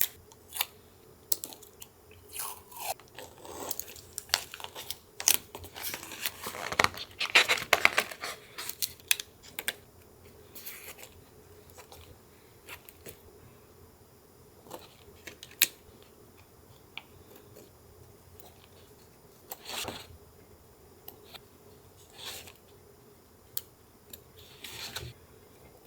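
Close-miked paper crafting: paper handled and crinkled, with a dense stretch of rustling and crackling from about five to nine seconds in, then scattered light taps and clicks and a few short rustles.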